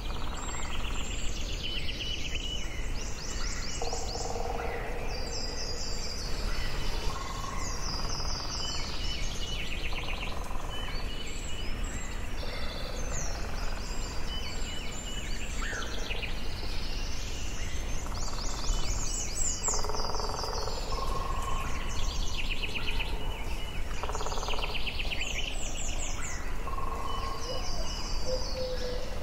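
Forest ambience: several birds singing and calling over one another, with short rapid trills and whistled phrases throughout. A steady low background noise runs underneath.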